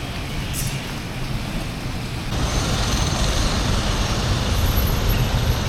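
Steady vehicle noise: a low rumble with a hiss over it, which gets louder about two seconds in.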